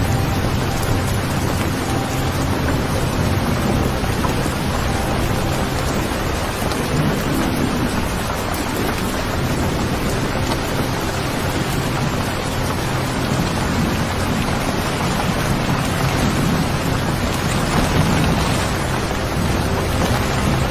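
Steady rain falling over a low rumble of distant thunder that swells a couple of times.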